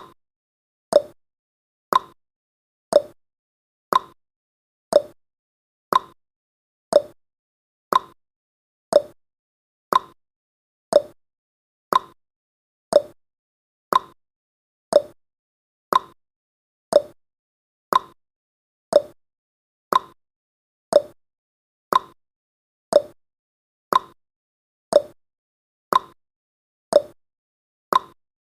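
Countdown timer's ticking sound effect: one short, sharp tick every second, evenly spaced like a clock.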